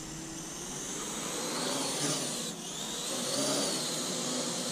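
Parrot AR.Drone 2.0 quadcopter's electric motors and propellers whining in flight, the pitch rising and falling as the throttle changes, with a short dip about halfway through.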